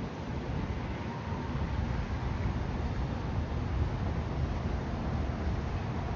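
Steady, low rumbling outdoor noise with no distinct events.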